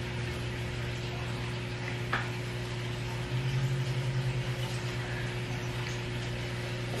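Steady low electrical hum in a small room, with a faint click about two seconds in and the hum wavering briefly in the middle.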